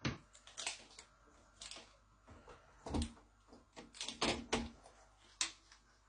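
A series of irregular knocks and clicks, about a dozen, sharp and short, with the loudest clustered around the middle.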